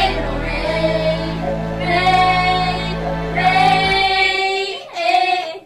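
A female singer holds long sung notes over a low sustained accompaniment chord, which fades out about four seconds in, leaving a last short sung phrase near the end.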